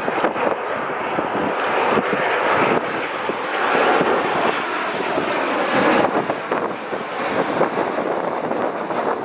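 Passenger aircraft's engines, a broad, steady noise that builds over the first few seconds and stays loud as the plane passes close by.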